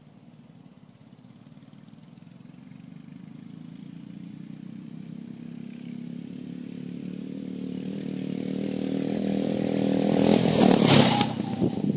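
A 5-horsepower mini bike engine running, growing steadily louder for about ten seconds as the bike comes closer. It is loudest near the end as it passes close by, with a brief burst of rushing hiss, then drops off.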